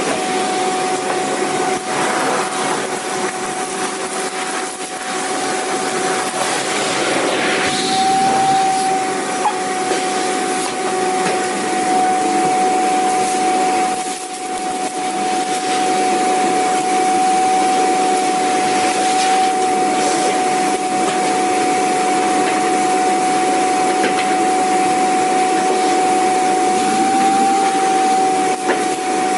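Vacuum cleaner running steadily: a rushing air noise under a steady motor whine that holds one pitch, with a brief dip in level about halfway through.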